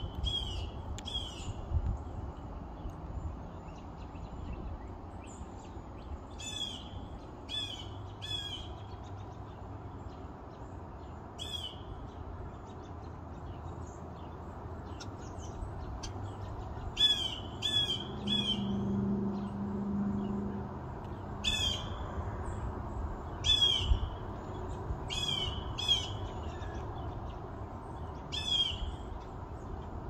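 A bird calling: short, sharp notes, singly or in quick runs of two or three, repeated every few seconds over a faint steady low rumble.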